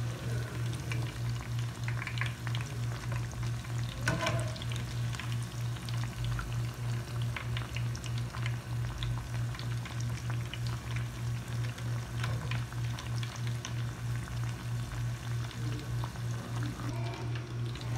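Chicken kababs shallow-frying in a pan of hot oil: a continuous bubbling, crackling sizzle, with a brief scrape about four seconds in as a wire skimmer turns them. A steady low hum pulsing a few times a second runs underneath.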